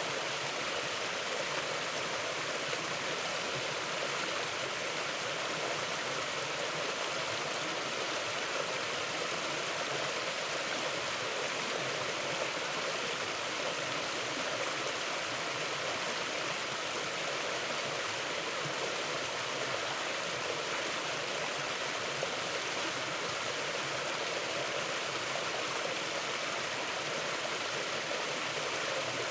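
Mountain river flowing steadily over rocks, a continuous even rush of water.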